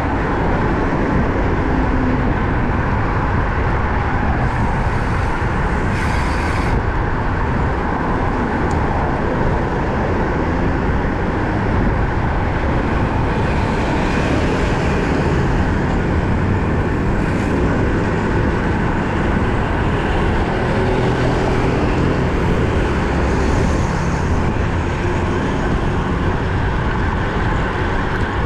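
Steady wind and road noise from riding a road bike along a highway, with vehicles now and then adding a passing rush, about six seconds in and again in the second half.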